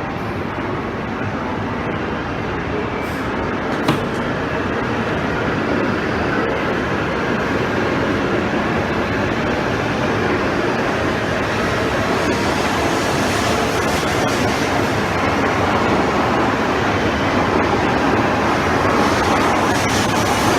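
Shinkansen train running alongside the platform, a steady rush of running noise that slowly builds in level, with one sharp click about four seconds in.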